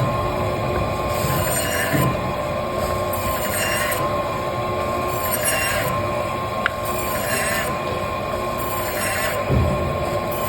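Motorised cutting machine running steadily as it cuts up a large Spanish mackerel, with a high squeal coming back about every two seconds.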